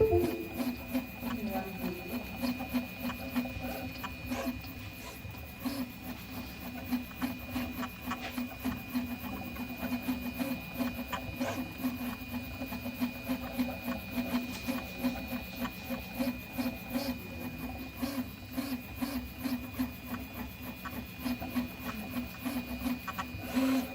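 Prusa i3 MK3 3D printer running a print, its moving axes giving a rhythmic low buzzing pulse about three times a second with light clicks. This is the unexplained weird noise it makes on movement.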